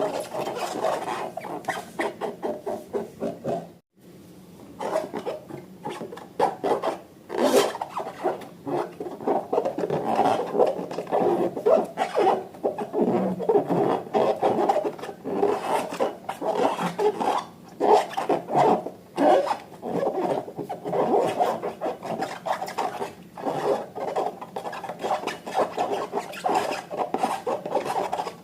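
Hands working slime and balloons, with fast, irregular rubbing and squishing strokes. The sound cuts out abruptly for a moment about four seconds in.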